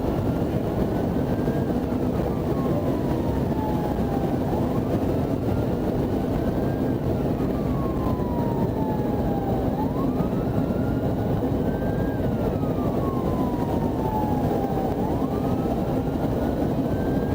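Police car siren on a wail setting, a tone rising quickly and falling slowly about every five seconds. Under it is a steady, loud rush of vehicle road and engine noise.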